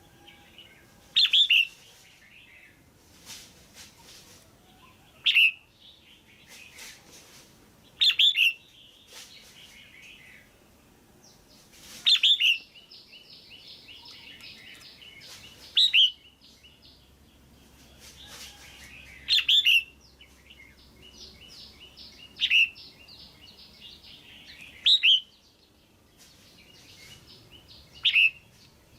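Female red-whiskered bulbul calling loudly: short sharp calls about every three to four seconds, with softer chattering trills between them. This is the call that keepers use to stir up a male bulbul or to pair birds.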